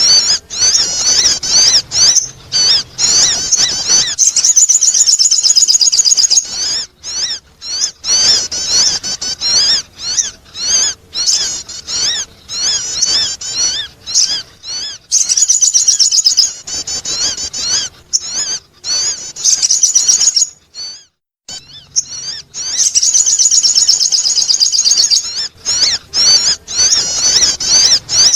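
Sogon bird calls, a lure recording: rapid high chirps and trills run together in long runs, broken by short pauses, the longest about three-quarters of the way through.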